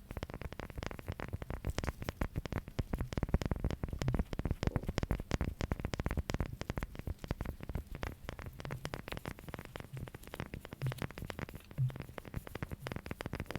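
Fingers tapping and scratching on a hard object close to the microphone, making a rapid, dense run of small clicks that keeps up without a break.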